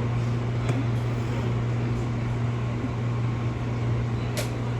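Inside the cabin of a Fujikyu 6000 series electric train standing before departure: a steady low electrical hum from the train's onboard equipment, with a sharp click near the end.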